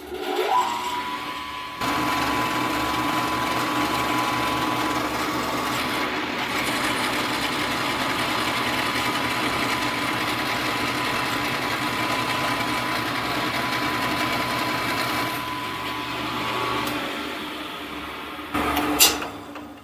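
Milling machine spindle motor spinning up with a rising whine, then running steadily while the end mill takes the final cut along a thin metal strip, louder and rougher during the cut. Near the end the cut finishes and the motor is switched off and winds down.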